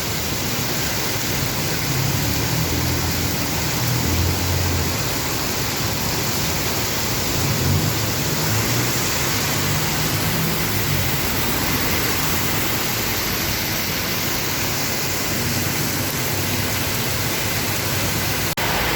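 Heavy rain pouring down in a steady, even hiss, with a low rumble underneath in the first few seconds and again around the middle.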